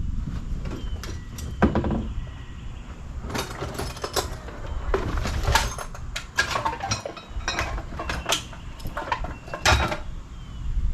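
Irregular wooden knocks and clatter of boards being handled and tapped while fitting a door frame. There are a dozen or so knocks, the sharpest about two seconds in and near the end.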